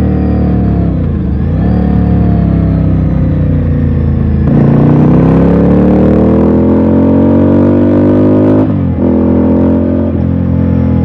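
Ducati Scrambler's air-cooled L-twin engine under way: it slows off the throttle, then pulls up through the revs from about four and a half seconds in. A short break near the end marks a gear change, after which it runs at a steady pitch.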